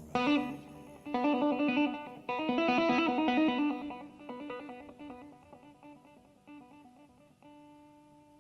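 Blues guitar played solo: a busy run of notes that slows and thins out, ending on a single held note that rings and fades near the end.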